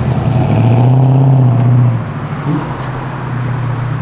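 Ford Falcon XE ESP engine running at low speed as the car rolls past, a steady, deep note that is loudest in the first two seconds and then drops off somewhat.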